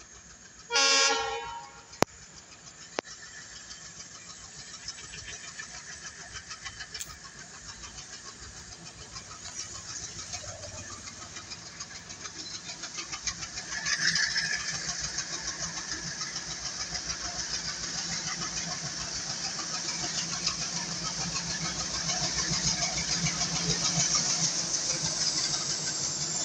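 Approaching passenger train headed by a diesel locomotive: one short horn blast about a second in, then a rumble and clatter of wheels on rails that builds steadily as the train draws near.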